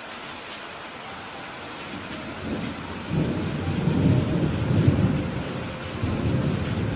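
Steady rain falling, with a roll of thunder rumbling in about two and a half seconds in, peaking around the middle and fading toward the end.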